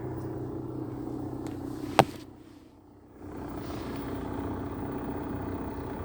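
Lada Vesta idling with the clutch engaged, with a steady rattle from the gearbox that the owner puts down to a defective clutch disc rather than the input-shaft or release bearing. A single sharp click about two seconds in, then the sound drops away for about a second before returning.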